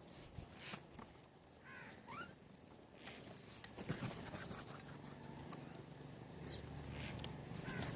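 Small birds at a feeder: scattered light taps and pecks, with a few short chirps about two seconds in and again near the end.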